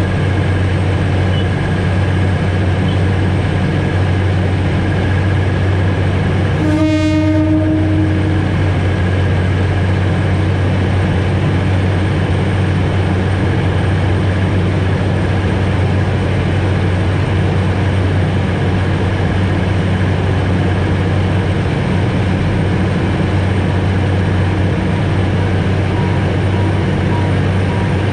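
Alishan Forest Railway train heard from the cab: a steady low running hum with rail noise. One horn blast comes about seven seconds in and lasts over a second.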